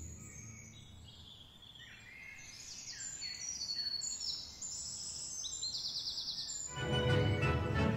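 Birds singing: a string of short high chirps and falling trills, ending in a fast trill. Music fades out at the start and comes back in about seven seconds in.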